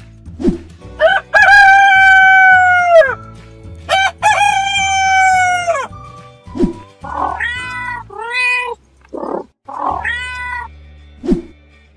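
Rooster crowing twice, each crow long and ending in a falling tail, then a cat meowing several times in short calls. Background music with a low steady bass runs underneath.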